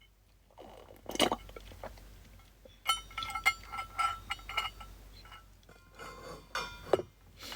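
A run of clinks and taps from small hard objects. The first sharp knock comes about a second in, short ringing tones follow in the middle, and another cluster of knocks comes near the end.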